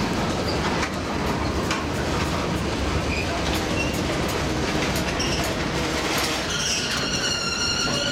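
Freight train rolling slowly on jointed yard track, a steady rumble with scattered sharp clicks. A high-pitched wheel squeal sets in near the end and holds steady.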